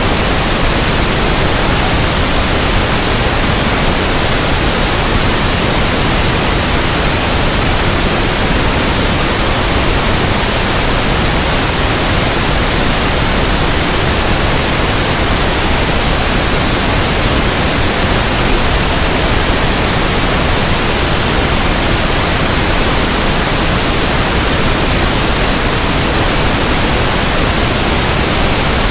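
Pink noise: a steady, even hiss with no changes or breaks.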